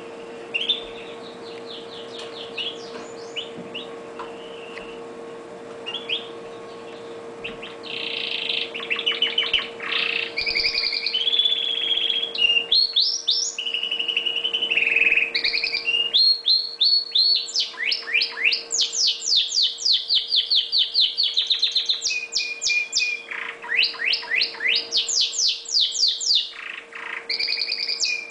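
Red factor canary singing: a few soft twitters at first, then about eight seconds in a loud, continuous song of fast trills and rolling phrases that runs on to the end.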